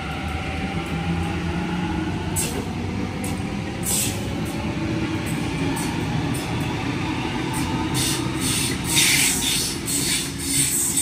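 Sydney electric passenger train running past: a motor whine rising in pitch under a steady rumble, then sharp high clicks and squeals from the wheels, growing busier and louder over the last few seconds.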